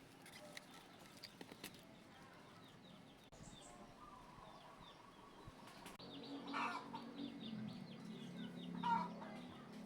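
Chickens clucking, with small birds chirping in quick repeated notes throughout. A low steady hum joins about six seconds in, and a louder call stands out near the end.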